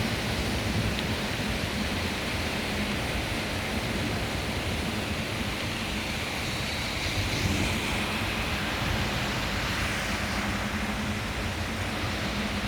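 Heavy rain pouring steadily in a thunderstorm downpour, an even hiss with a low rumble beneath.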